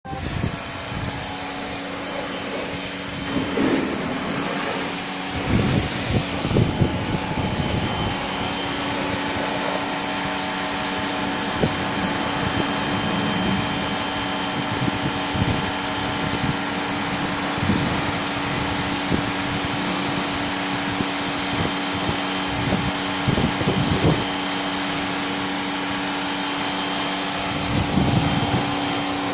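Bosch AQT 40-13 electric pressure washer running with a steady motor-and-pump hum, its high-pressure spray hissing against a car's engine bay, with louder irregular splashing surges every few seconds as the jet moves.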